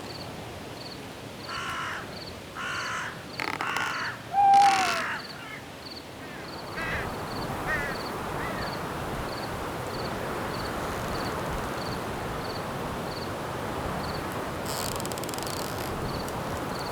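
Night forest ambience: a bird gives four short, harsh calls in the first five seconds, then a steady rushing noise comes up and holds. A cricket chirps at an even pace throughout.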